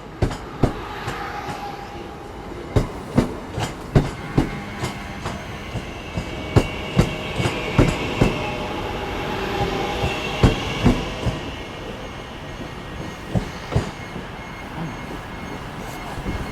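Passenger train rolling through station pointwork, its wheels clattering over rail joints in a long run of sharp, irregular clicks. A faint wheel squeal rises around the middle.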